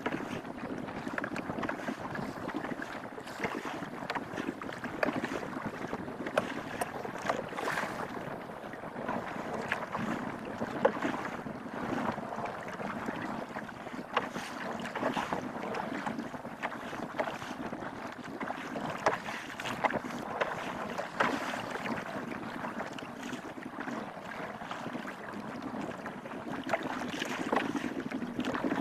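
Wind buffeting the microphone and sea water around a small wooden fishing canoe, with many scattered knocks and clicks.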